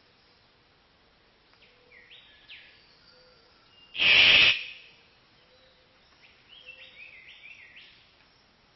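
A bird calling: short quick chirps about one and a half seconds in and again from about six and a half seconds. One loud, harsh burst lasting about half a second comes about four seconds in.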